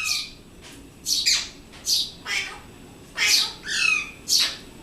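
Pet Alexandrine parakeet giving a string of short, harsh, high-pitched squawks, about seven in all, some ending in a brief falling note.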